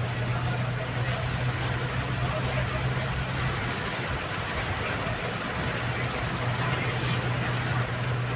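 Heavy rain on a moving car, with tyres on a wet road and a steady low engine hum that fades for about two seconds midway.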